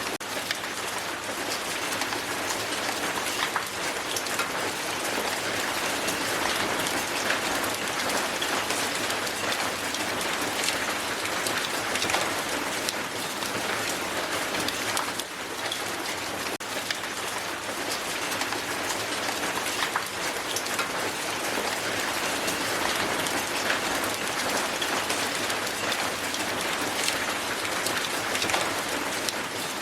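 Hail falling hard and steadily onto a hard surface: countless sharp ticks of hailstones striking, merged into a constant hiss.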